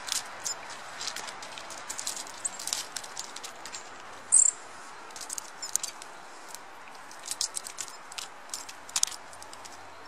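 Quick, irregular, high clicks and crackles of small birds and squirrels pecking and nibbling sunflower seeds and nuts from a hand, with one louder crackle about four seconds in.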